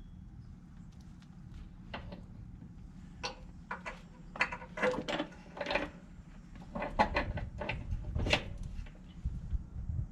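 Metal roller chain clinking and rattling in irregular little clusters as it is handled and fitted onto the baler's pick-up head, with scattered sharper clanks of metal on metal.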